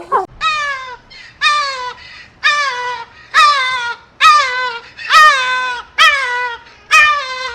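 An animal calling over and over, about once a second: a series of clear, pitched calls, each starting sharply and falling in pitch.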